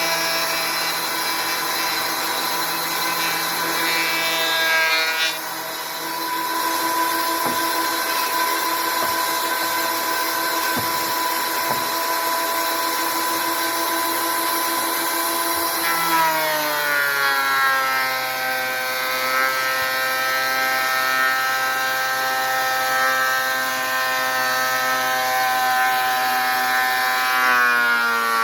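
Thickness planer running with a steady motor whine as boards are fed through. About halfway through the pitch drops and stays lower, the motor slowing under the load of the cut.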